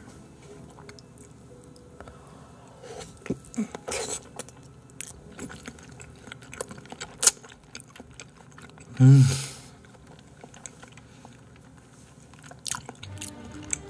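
A man chewing a mouthful of raw salmon sashimi with capers close to the microphone: scattered wet mouth clicks and smacks, with a brief loud voiced hum about nine seconds in.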